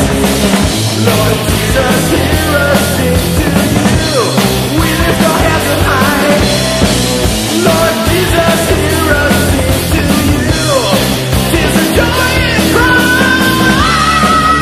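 Loud heavy metal band music: full band with drums and guitars, with bending lead lines and a long held high note that bends upward near the end.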